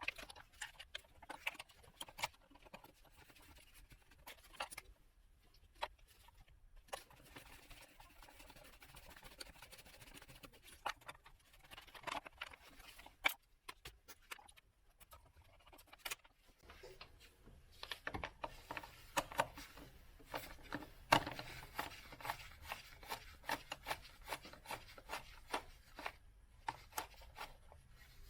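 Irregular metallic clicks, taps and scrapes of hand tools and small parts being handled while the glow plug plate is unbolted from a diesel engine, busier and louder in the second half.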